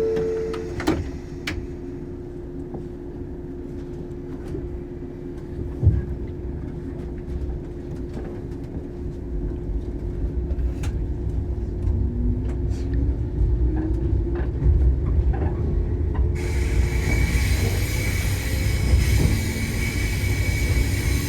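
Shinano Railway 115 series electric train pulling away from a station, heard from inside the carriage. A jolt about six seconds in, then the running noise builds as it accelerates, with a short rising whine and scattered clicks. The noise turns louder and brighter a few seconds before the end.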